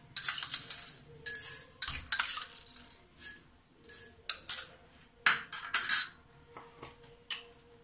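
Dried popcorn kernels spooned into a dish, rattling and clinking in a series of short pours, with a few lighter clicks near the end.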